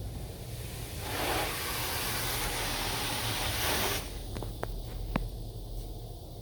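High-pressure water jets of a touchless car wash spraying the vehicle, heard from inside the cab: a loud even hiss starts about a second in and cuts off suddenly about three seconds later, followed by a few sharp ticks, over a low steady rumble.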